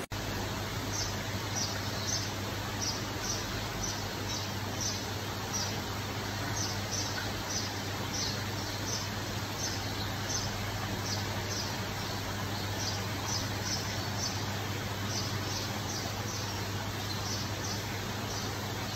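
A bird chirping in short, high notes, two or three a second, over a steady low hum and hiss.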